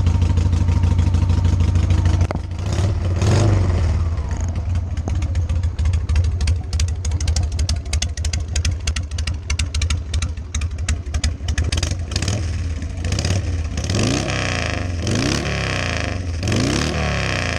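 Harley-Davidson Sportster 883 V-twin running through drag pipes, idling steadily. It gets a short throttle blip about three seconds in and three quick blips near the end.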